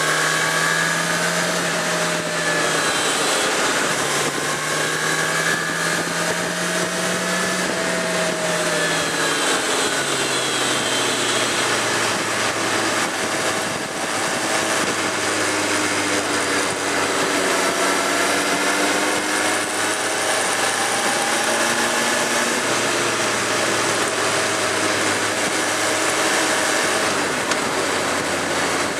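Suzuki GSX650F's inline-four engine running at cruising speed with wind rush, heard from on board. The engine note drops about ten seconds in as the bike slows, then holds steady at a lower pitch.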